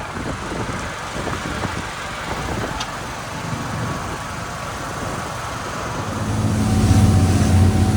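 Twin Cummins 8.3 diesel engines of a Sea Ray 44 Sundancer running under way, with a broad rush of wind and water. About six seconds in, the engine drone grows louder into a steady, pitched hum.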